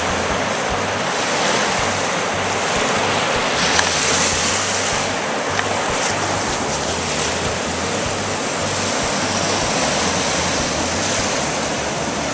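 Atlantic Ocean surf breaking and washing up the beach, a steady rush, with wind buffeting the microphone.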